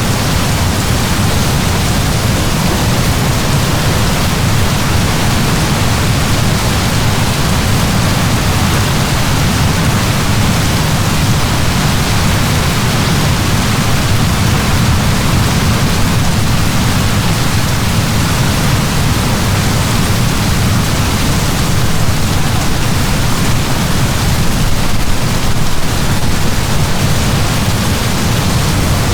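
Heavy rain falling steadily: a loud, even downpour without let-up.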